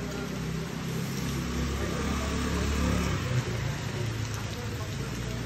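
Steady rain hissing on wet pavement, with a motor vehicle's engine hum swelling to its loudest about three seconds in and then easing off, as if passing nearby. A single short knock comes at the loudest moment.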